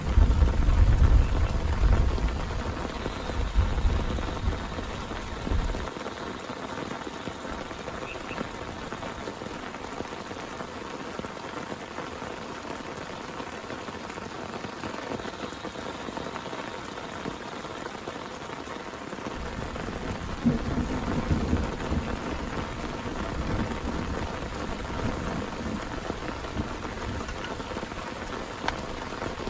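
Heavy rain falling steadily, with thunder rumbling at the start and dying away about six seconds in; a second rumble of thunder comes in about two-thirds of the way through.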